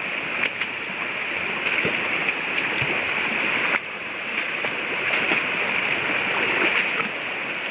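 Rainforest river water flowing steadily, with a few faint small splashes or knocks over it.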